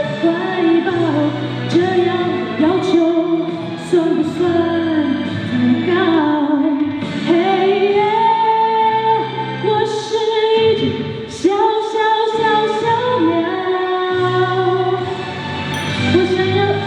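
A woman sings a Mandarin pop ballad over a backing track, holding several long notes.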